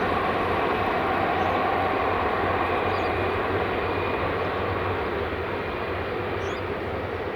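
Jet airliner's engines, a steady rushing noise with a faint held whine, slowly fading as the aircraft moves away.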